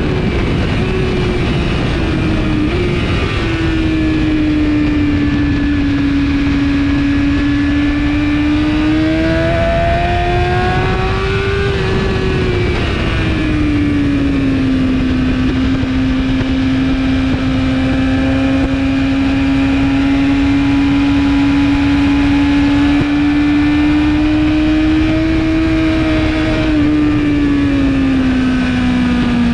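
2017 BMW S1000RR's inline-four engine, with an Akrapovic exhaust, running at high revs on track. Its pitch holds high and sways slowly, easing off and building again several times, over a steady rush of wind.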